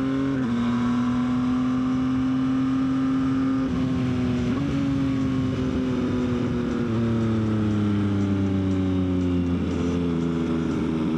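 Yamaha XSR900's three-cylinder engine running under way, with a steady note whose pitch eases down slowly and shifts with the throttle a few times.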